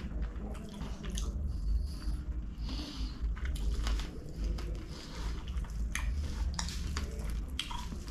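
Close-miked chewing of a mouthful of chicken kottu, wet, with many short sharp mouth clicks and smacks scattered through it.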